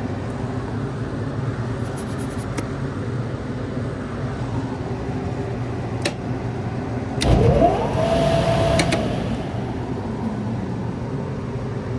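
HVAC unit running with its newly replaced indoor blower motor, a steady hum with a few sharp clicks. About seven seconds in, a louder whine rises in pitch, holds for under two seconds and fades.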